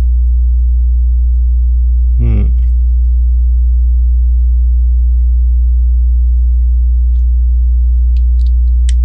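Loud, steady electrical mains hum with a ladder of steady overtones. A short vocal murmur comes about two seconds in, and a few faint clicks of Lego pieces being handled come near the end.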